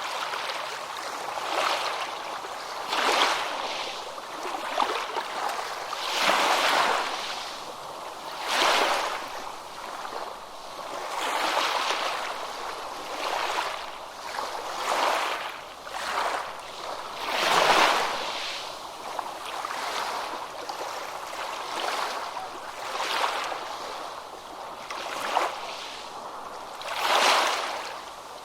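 Ocean waves washing onto a beach, the surf swelling and falling back every two to three seconds, with a few bigger breakers among them.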